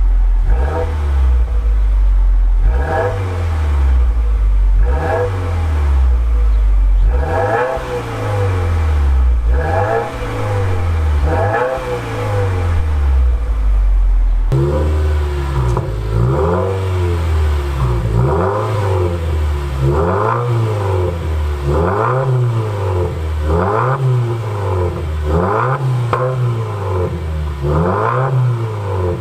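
Subaru WRX boxer four-cylinder engine revved repeatedly, about one blip every two seconds, heard from the exhaust. A sudden cut about halfway through switches from the stock exhaust to the Remark axleback muffler delete, which sounds raspier.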